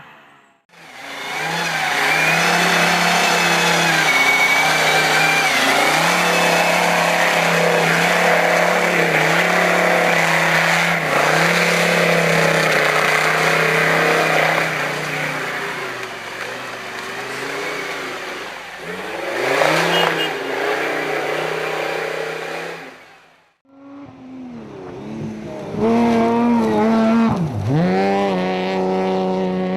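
Competition car engines at full throttle, revving up and down through the gears in two clips split by a sudden cut about 23 seconds in. Around 20 seconds in a car passes close by with a quick drop in pitch. Near the end the engine note dips sharply and climbs again.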